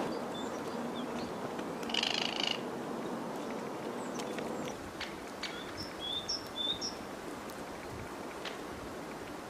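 Outdoor birdsong: a short harsh bird call about two seconds in, then several brief high chirps from small birds, with a few faint scattered taps over a steady background hiss.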